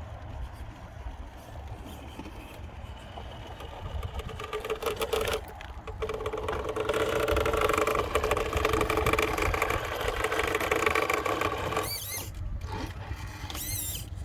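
Radio-controlled truck's electric motor and gearing whining under throttle. The whine builds about four seconds in and stays strong, then gives way to quick rising squeals near the end.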